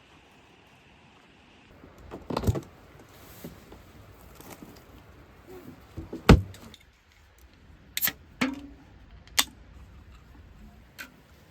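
A series of sharp knocks and clatters, about six of them at uneven intervals, the loudest a little over halfway through: hard objects being handled and set down.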